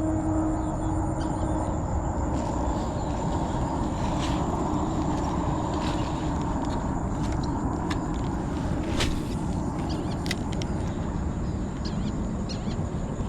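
Steady low rumbling noise across an open rice field, with a constant high-pitched insect trill above it and a dozen or so sharp clicks scattered through.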